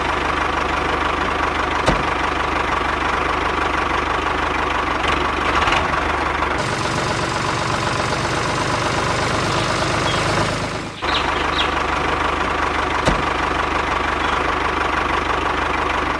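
A motor running steadily, in three stretches joined by cuts about six and a half and eleven seconds in.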